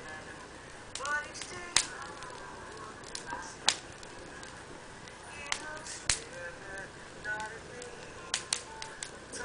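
Burning wood or charcoal crackling, with a handful of sharp pops at irregular intervals.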